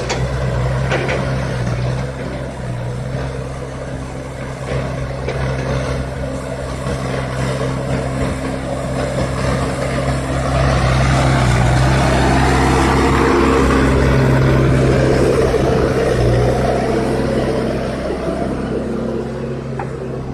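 CASE backhoe loader's diesel engine running steadily. It grows louder and fuller for about six seconds midway, as if working under load, then settles back. A few knocks are heard near the start.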